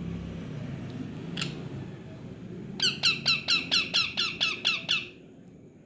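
Pet parrot calling: one short call, then about a second later a quick run of about ten loud, high calls, each falling in pitch, about five a second, lasting about two seconds.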